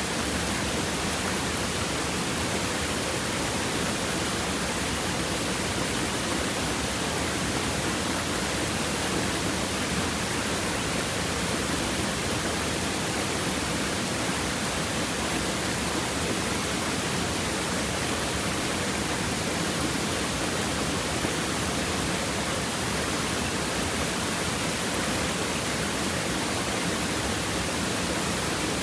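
Stream water babbling over rocks in a steady, unbroken rush.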